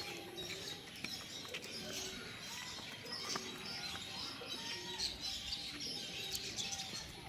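Many birds chirping and calling at once, short high chirps overlapping throughout with a few lower calls among them.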